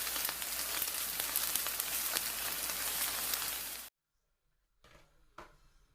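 Food sizzling and crackling as it fries in a pan, cutting off abruptly about four seconds in, followed by near silence with two faint clicks.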